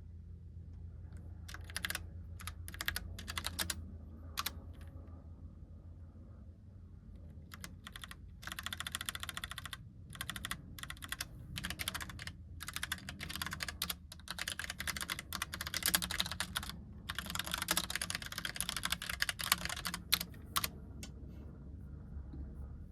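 Typing on a Logitech Pop Keys mechanical keyboard with round typewriter-style keycaps. A few scattered keystrokes come first, then a pause, then fast runs of clicking keys that stop near the end.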